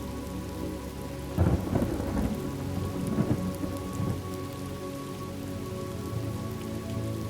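Steady rain falling, with a roll of thunder breaking about a second and a half in and rumbling on for two or three seconds before fading back into the rain.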